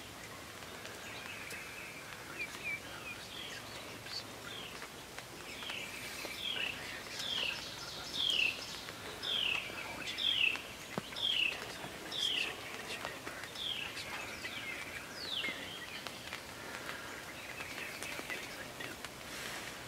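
A songbird singing a series of clear, down-slurred whistled notes, about one a second, loudest in the middle of the stretch, over fainter chirps from other birds in the background.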